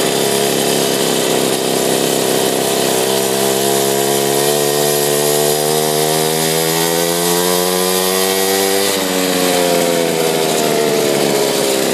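Mini bike's small engine running hard, its pitch climbing steadily from about three seconds in as it speeds up, then dropping suddenly near nine seconds and falling away as it slows.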